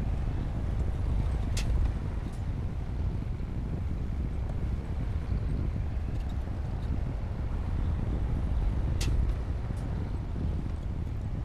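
Bulldozer's diesel engine working with a steady low rumble. Two sharp clicks come about one and a half seconds in and again near the end.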